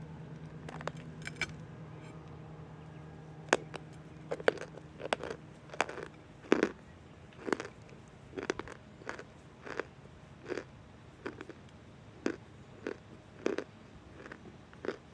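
Close-up crunching bites and chewing of dry chunks of cornstarch: sharp crisp crunches at roughly one to two a second, starting about three and a half seconds in.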